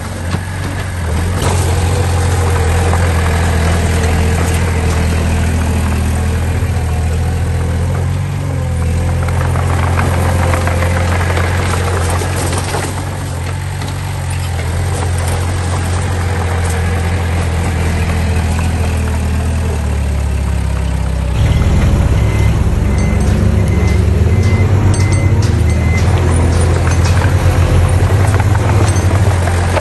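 Diesel engines of heavy earthmoving machinery (dump trucks and a small bulldozer) running steadily. They grow louder and rougher about two-thirds of the way through.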